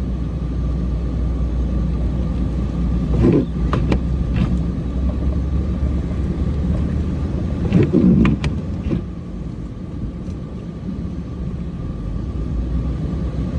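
Cummins diesel truck engine running steadily as it drives and turns through deep snow. A few knocks and thumps come about three to four seconds in, and a louder one about eight seconds in.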